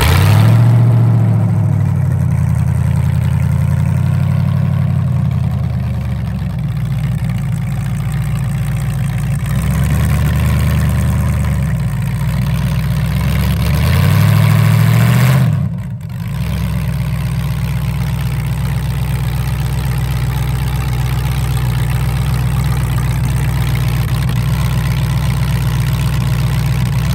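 LS V8 with open upright headers in a swapped Crown Victoria catching and settling into a loud, lumpy idle. About halfway through it revs up briefly, then drops back to a steady idle.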